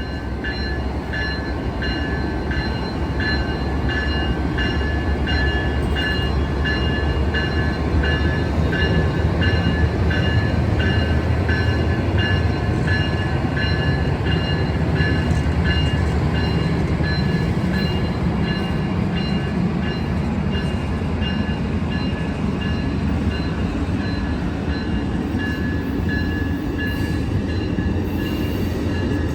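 Amtrak Capitol Corridor train pulling out, its Siemens Charger SC44 diesel locomotive and cars making a low rumble that builds and stays loud, with a bell ringing about twice a second over it.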